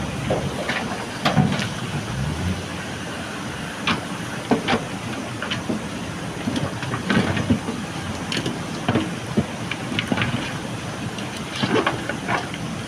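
JCB backhoe loader's diesel engine running steadily under irregular sharp clanks and rattles of gravel and steel as the machine works gravel.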